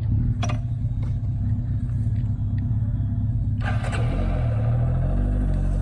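Motorcycle engine running steadily just after being started. About four seconds in a rushing noise comes in and the engine note shifts as the bike moves off.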